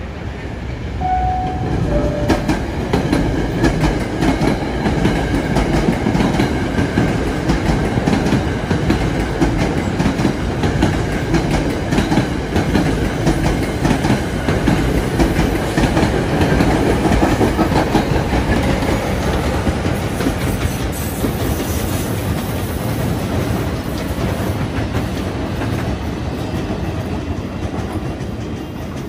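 A train running past on the rails: a loud rumble with rapid clicking of wheels over the track, building about two seconds in, holding for most of the time and easing off near the end. Two brief tones, the second lower than the first, sound about one and two seconds in.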